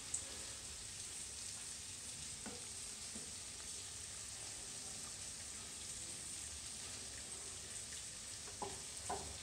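Steady sizzling of food frying in hot oil, with a few faint taps about two and a half seconds in and again near the end.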